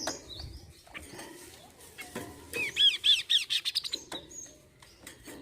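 Kaso-kaso bird calling: scattered short calls, then about two and a half seconds in a loud, quick run of rising-and-falling notes, several a second, for just over a second.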